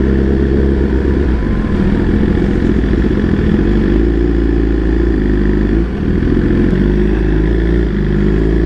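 BMW superbike engine running steadily under the rider as it cruises, with a brief drop in throttle about six seconds in.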